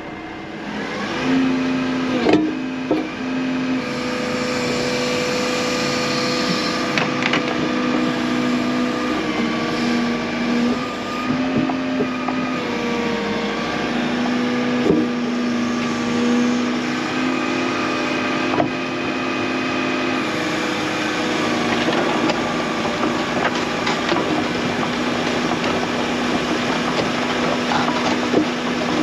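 Tracked excavator's diesel engine running under load as the machine slews round and tracks back, its note stepping up and down as the controls are worked, with a few sharp metallic knocks.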